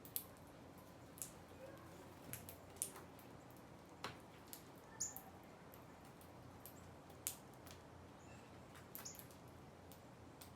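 Faint, irregular clicks and ticks of small birds pecking at seed, with a few brief high chirps, one about five seconds in.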